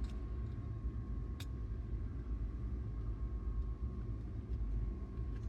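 A single sharp click about a second and a half in, over a steady low hum with a faint steady tone.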